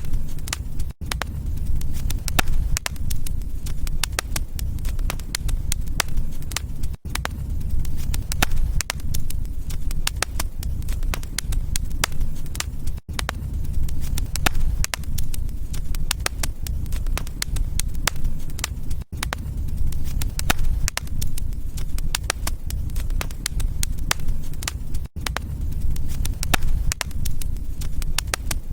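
Wood fire crackling, with frequent sharp pops and snaps over a steady low rumble. The sound dips briefly about every six seconds.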